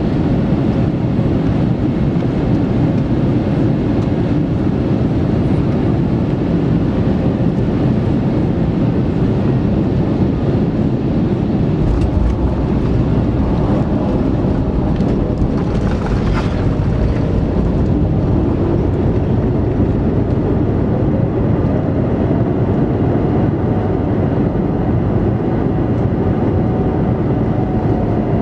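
Steady, loud cabin roar of an Airbus A321neoLR airliner during its landing into Montreal. There is a sharp knock about twelve seconds in, after which the low rumble grows heavier. Late on, a faint tone rises and then falls again.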